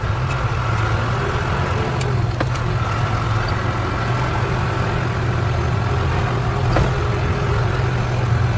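Truck engine running steadily as a low, even drone, with two faint clicks, one about two and a half seconds in and one near seven seconds.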